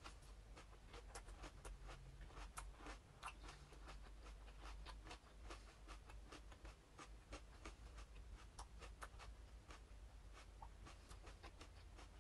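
A person chewing a mouthful of sauce-dipped iceberg lettuce with the mouth closed: faint, irregular crisp crunching clicks, several a second.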